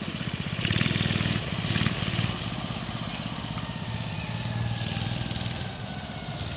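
Minibike engine being ridden, revving up in two surges in the first couple of seconds, then running more steadily with its pitch slowly falling.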